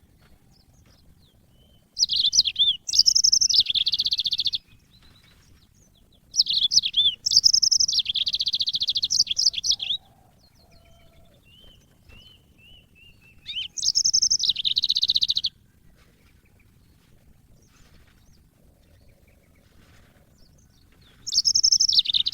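Yellow-fronted canary (mozambique) singing: four bursts of fast, high twittering song, each lasting one to three and a half seconds, with a few faint short notes in the gaps between them.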